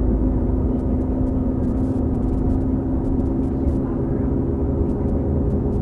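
Drivetrain of a New Flyer XD40 transit bus under way, with its Cummins L9 diesel and Allison B3400xFE transmission. It makes a steady low rumble with a held drone on top. The uploader puts the odd sound down to the transmission bearings.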